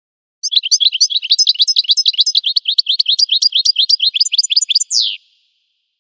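A finch singing a fast, even trill of short down-slurred notes, about six a second, for nearly five seconds, ending on one longer falling note. The song starts and stops abruptly.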